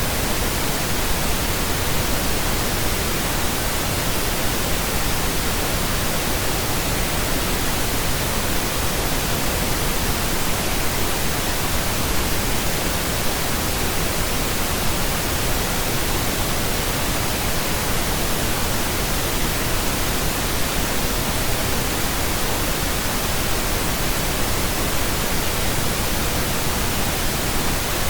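Steady pink noise, an even hiss spread across all pitches, unchanging throughout.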